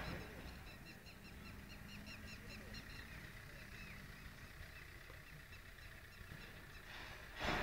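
Small birds chirping rapidly in the background, many short high notes a second, over a faint low rumble.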